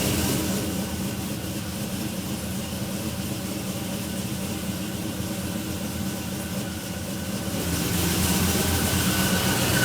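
Whipple-supercharged Chevrolet V8 of a 2011 Camaro SS idling on its first start after the install, with the uneven idle of a JRE rough-idle cam. It gets quieter about half a second in and louder again near the end.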